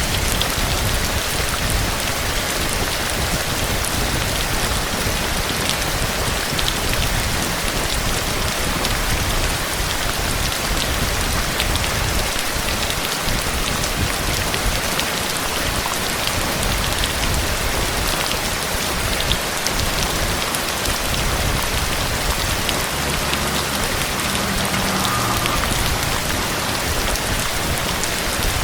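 Steady heavy rain falling on surfaces: a dense, even hiss full of drop patter.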